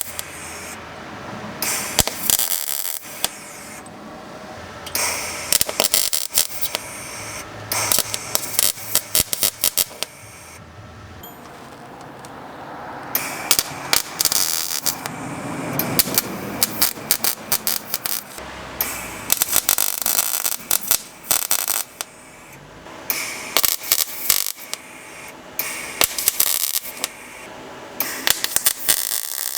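Arc welder crackling in repeated short bursts of one to two seconds with brief pauses between: tack welds and short beads repairing broken truck body-mount metal.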